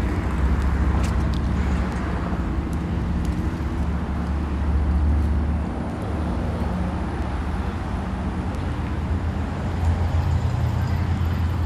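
Street traffic: a motor vehicle's engine running close by, a steady low hum that shifts a little higher about ten seconds in.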